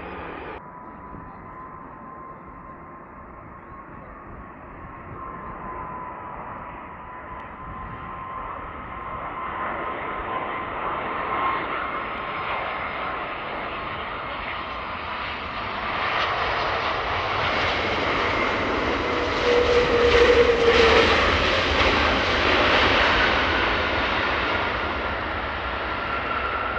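Large jet airliner on final approach to land: engine rumble with a steady whine, growing louder to a peak about twenty seconds in, then easing off slightly. Just after the start the sound changes abruptly.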